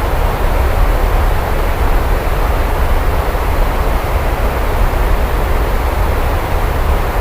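Steady heavy rain, an even unbroken hiss with a deep continuous low rumble underneath.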